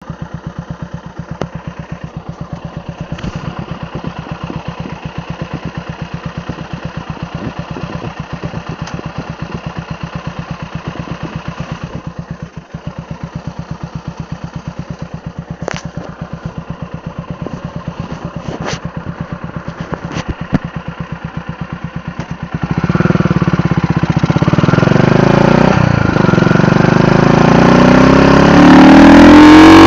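Honda GB single-cylinder four-stroke motorcycle engine through an aftermarket Wellington muffler, idling with an even, rapid exhaust pulse. About 23 seconds in it gets louder and is revved, the pitch rising and falling.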